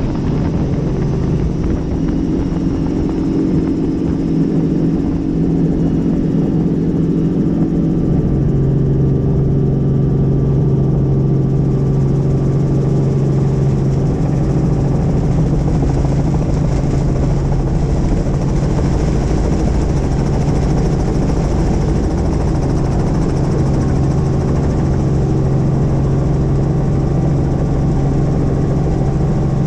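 Helicopter running steadily: the rotor and turbine give a loud, constant drone with a low hum that grows stronger about eight seconds in.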